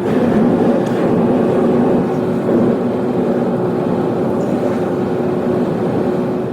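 A motor running steadily, a loud even noise carrying a couple of steady hum tones, starting abruptly and easing off near the end.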